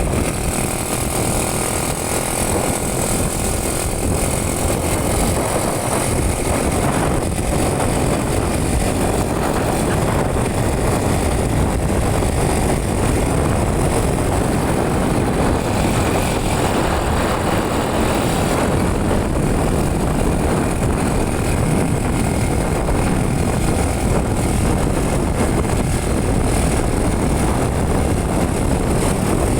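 Steady rush of wind and road noise from a moving motorcycle, with its engine running underneath.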